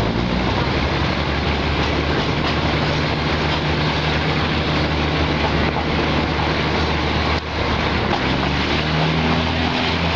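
Diesel railcar running along the line, heard from inside the carriage: a steady rush of wheel and wind noise over a low engine drone, with a brief dip in loudness about seven seconds in.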